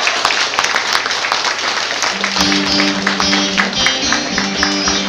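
Live band music with no singing: an instrumental passage at the end of the song. About two seconds in, held low notes come in over the steady beat.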